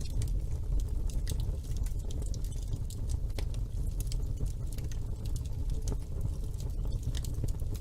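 Wood fire in a fireplace burning with a steady low rumble and irregular sharp crackles and pops from the burning logs.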